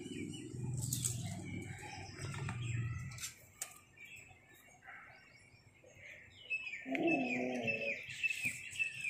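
Birds calling outdoors: from about six and a half seconds, a quick run of short falling chirps, several a second, with a brief lower call among them.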